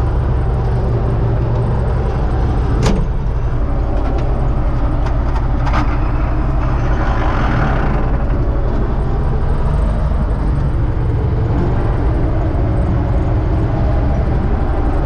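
Universal U650 tractor's diesel engine running steadily with a low drone. A single sharp knock comes about three seconds in, and a few light clicks about six seconds in.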